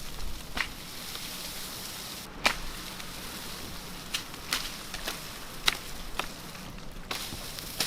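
A wooden stick knocking against snow-laden tree branches to shake off the wet snow: about seven sharp, irregular knocks and cracks, the loudest about two and a half seconds in.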